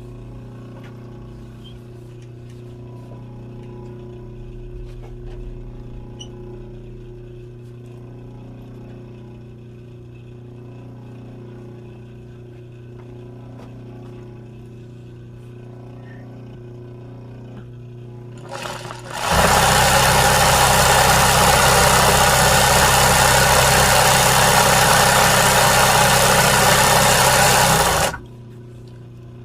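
Sewing machine stitching embroidery: a steady low hum, then about two-thirds in the machine runs fast and loud for around nine seconds before stopping abruptly.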